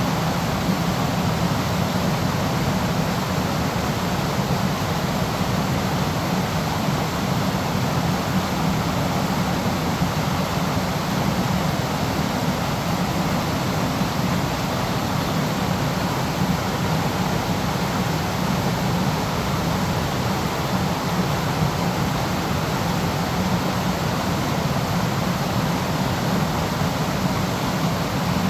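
Waterfall: a steady, unbroken rush of falling water, heaviest in its low rumble.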